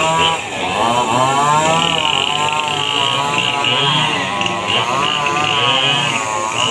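Small motorcycle engine running, its pitch rising and falling smoothly with the throttle as it rides over a rough road.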